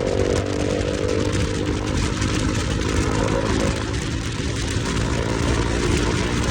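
Motorcycle engine running at a steady pitch while riding, under a steady rushing noise.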